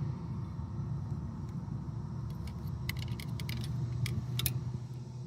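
A steady low hum, with a handful of light, sharp clicks and small metallic taps scattered through the middle.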